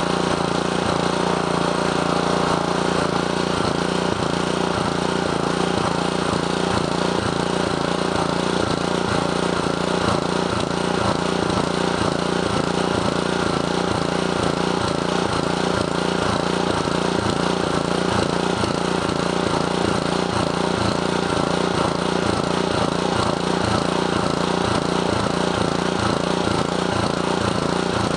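Honda GC160 160cc single-cylinder overhead-cam engine running steadily, on the small amount of fuel left in it after the tank was drained.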